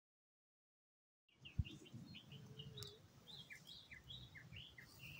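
Dead silence, then from about a second and a half in, birds chirping faintly and repeatedly over a low outdoor hiss. A single brief thump comes just as the sound begins.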